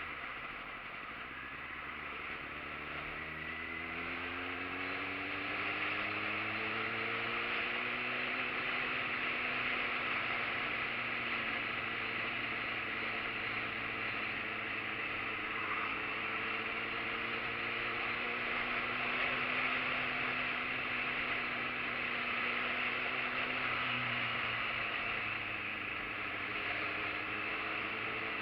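Motorcycle engine running under way, its pitch rising over the first several seconds as the bike speeds up, then holding fairly steady with small rises and falls, over a steady rush of wind and road noise.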